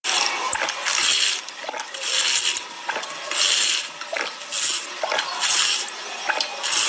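Ice being crunched and chewed in the mouth, in repeated crackling bursts about once a second, with sharp clicks between them.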